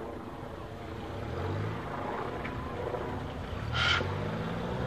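1987 Suzuki Samurai's 1.3-litre four-cylinder engine pulling up a dirt hill, its pitch rising twice as it revs. A short high call cuts in about four seconds in.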